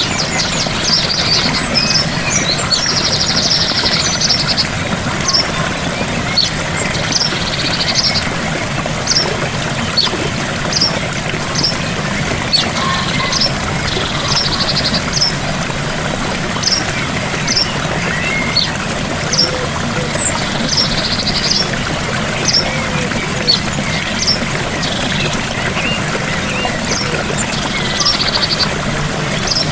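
Steady rush of a gentle waterfall, with short high bird chirps repeated all through and several brief buzzy trills.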